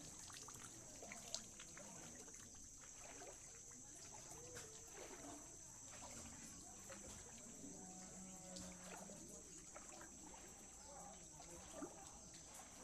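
Near silence: faint ambience with a steady high-pitched hiss and a few soft clicks.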